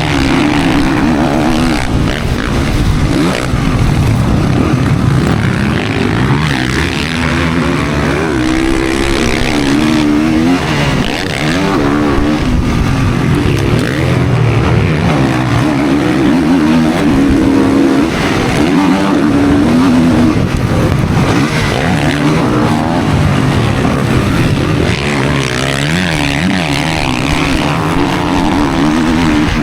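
Motocross dirt bike engine being ridden hard, revving up and dropping back over and over as the rider works the throttle and gears.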